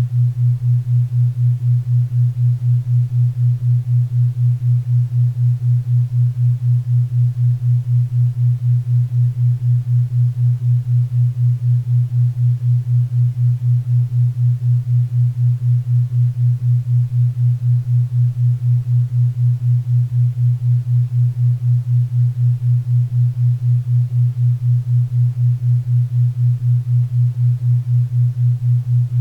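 A low, hum-like synthetic tone pulsing evenly about four times a second: a 4 Hz theta-wave beat for brainwave entrainment. Faint pink and brown noise lies underneath it.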